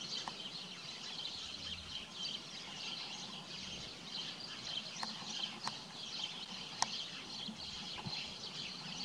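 Faint outdoor ambience: a steady high hiss with six short, sharp ticks scattered through it.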